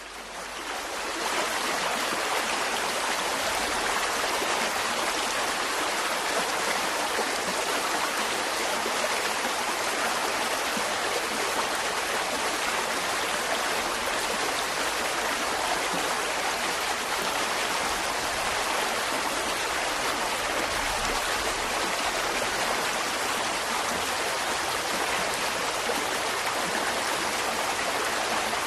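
Mountain stream running, a steady rush of flowing water that fades in over the first second or two.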